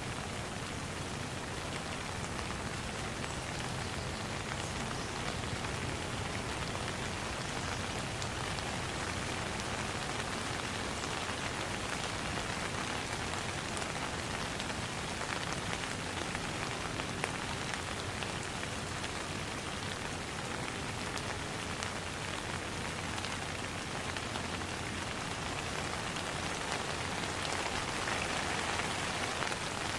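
Steady rain falling on a pond: an even hiss with many small drop hits, growing a little heavier near the end.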